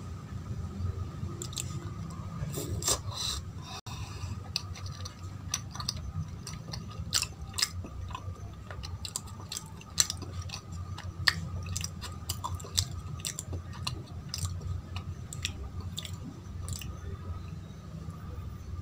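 Close-up chewing and mouth smacking of a soft, syrup-soaked gulab jamun, with many irregular sharp mouth clicks over a steady low hum.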